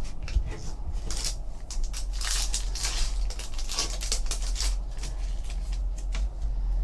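Trading cards and their foil pack being handled: a run of crinkling and sliding scrapes as cards are pulled and flipped through.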